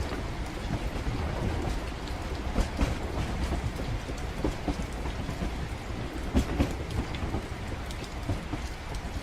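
Steady low rumble of a moving train mixed with falling rain, with scattered short knocks and clicks.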